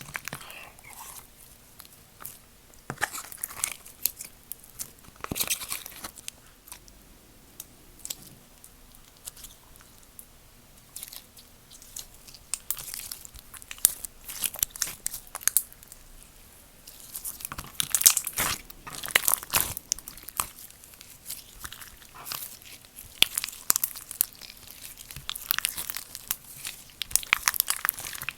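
Slime being squeezed, stretched and poked by hand, with irregular crackling, popping and tearing sounds that come thicker in the second half.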